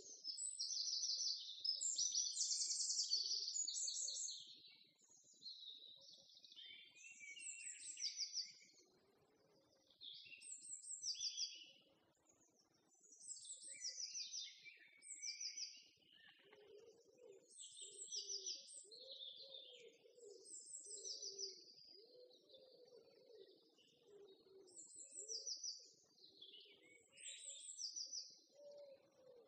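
Small songbirds chirping, in short, fast high-pitched trills repeated every second or so, loudest in the first few seconds.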